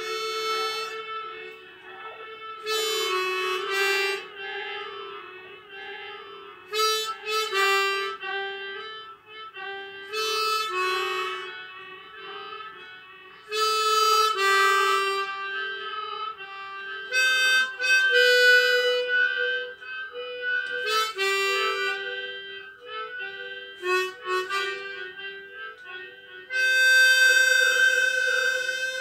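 Harmonica playing slow, sustained music: a low held note runs under swelling phrases of bright chords that rise and fade every few seconds.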